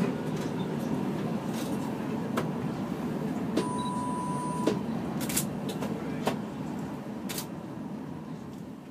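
Tram-train running along the track: a steady low rumble of the ride with sharp clicks every second or so. A steady beep lasting about a second comes near the middle.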